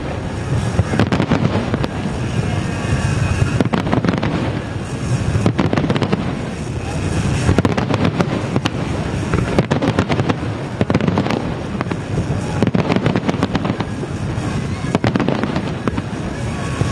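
Aerial fireworks display bursting in quick, continuous succession: many sharp bangs over a steady rumble and crackle, with no pause.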